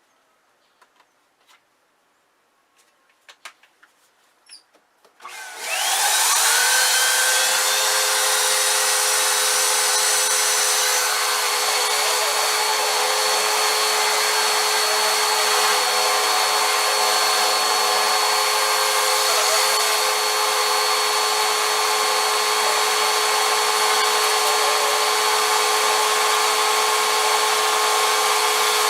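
A few light clicks and knocks, then about five seconds in a vacuum cleaner motor switches on, its whine rising as it spins up, and runs steadily at full speed.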